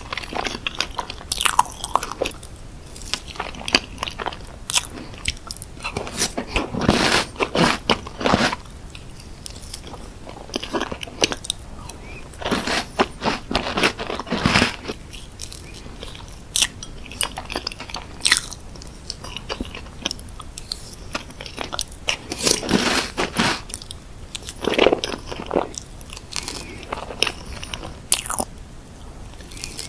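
Close-miked eating sounds: a person takes crunchy bites and chews, in irregular bursts of crackling crunches throughout.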